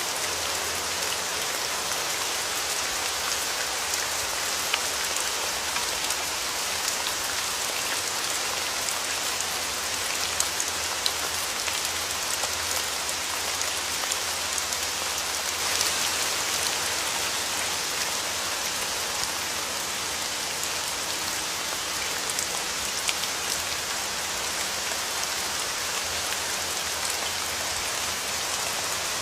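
Steady rain falling on a surface, an even hiss dotted with the sharper ticks of individual drops.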